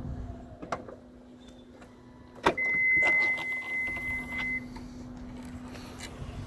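Latch and mechanism clicks at the rear of a 2016 Toyota Highlander, the loudest about two and a half seconds in, followed by a steady high electronic beep lasting about two seconds, over a faint steady hum.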